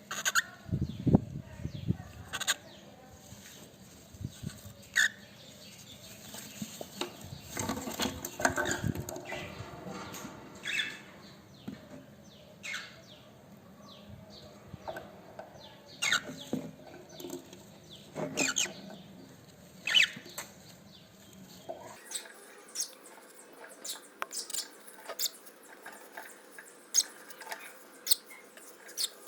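A cockatiel moving about, with irregular scratches, rustles and wing flaps.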